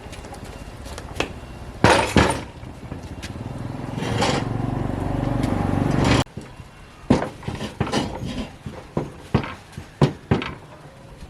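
Sharp knocks and clatter of hard objects, with a steady whirring noise that builds for about two seconds and cuts off suddenly, followed by a string of separate sharp knocks.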